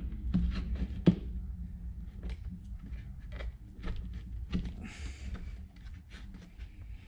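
Light irregular clicks and taps of ignition leads being handled and pushed into a plastic lead separator, over a steady low hum.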